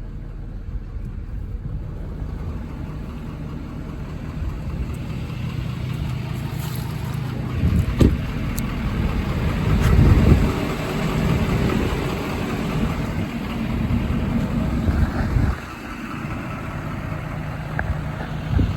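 A 6.7 Power Stroke diesel engine runs steadily. About eight seconds in it grows louder and rougher, with a knock or two, then drops back suddenly about fifteen and a half seconds in. Another short knock comes near the end.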